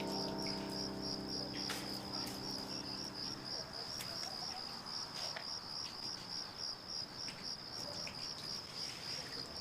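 Crickets chirping in a steady, evenly pulsing trill. The tail of background music fades out in the first few seconds.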